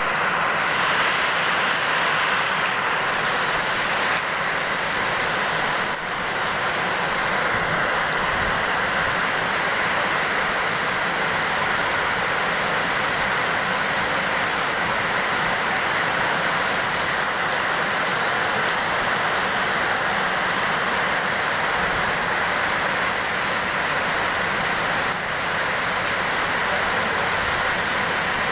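Heavy rain pouring onto paved ground and puddles, a steady dense hiss.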